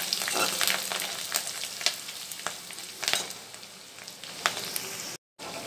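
Ginger, garlic and green chillies sizzling in hot oil in a metal kadai, with a metal spatula scraping and clinking against the pan as they are stirred. The sizzle eases down after about two seconds, and the sound cuts out for a moment near the end.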